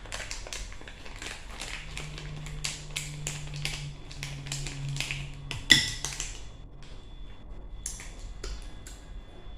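Eating and food-handling noises close to the microphone: a quick run of small clicks and taps, with one sharp, loud click near the six-second mark, then sparser ticks. A low steady hum runs for a few seconds in the middle.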